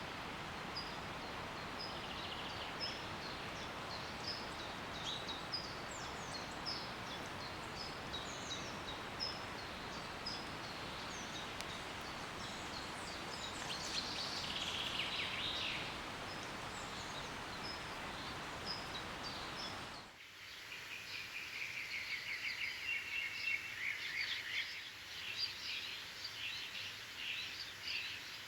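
Forest ambience: a steady rushing noise with a bird repeating short, high chirps over it. About two-thirds of the way through it changes abruptly to a quieter background filled with dense bird chirping and trilling.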